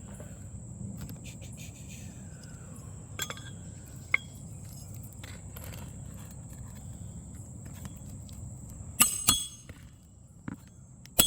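Roofing hatchet striking roofing nails into asphalt shingles: a couple of light metallic taps, then three sharp, ringing strikes, two about nine seconds in and one near the end, over a steady low background noise.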